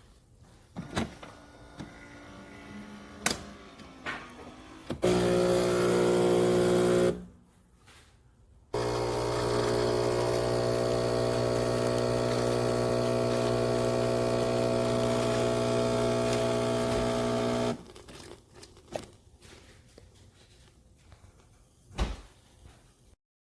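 Philips 4300 Series fully automatic espresso machine running with a steady electric hum, once for about two seconds and then, after a short pause, for about nine seconds. Light clicks and knocks come before and after.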